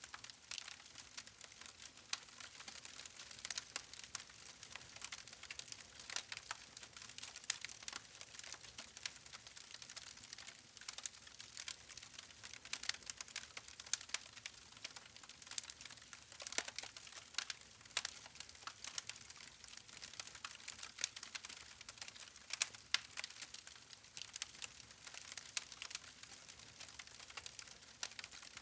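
Wood fire crackling: a steady stream of irregular sharp pops and snaps from the burning logs over a soft hiss.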